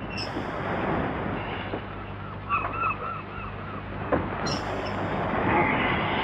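Steady rushing background noise with a short run of about five honking bird calls in the middle, followed by a couple of sharp knocks.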